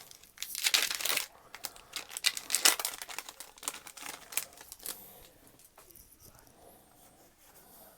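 Foil wrapper of a Pokémon trading-card booster pack being torn open and crinkled, with two loud tearing bursts in the first three seconds, then softer rustling that fades out.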